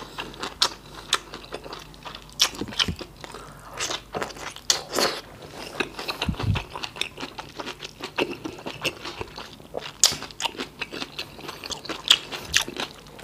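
Close-miked eating sounds of a person chewing a boiled bok choy leaf and rice from beef soup: many sharp, irregular wet mouth clicks and smacks.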